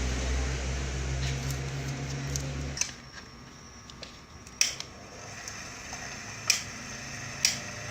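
Electric fan motor humming steadily, cut off about three seconds in, followed by three sharp clicks.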